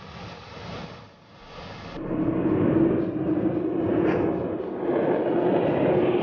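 Jet aircraft noise, a steady rushing. About two seconds in it switches abruptly to a louder rushing with a steady hum running through it.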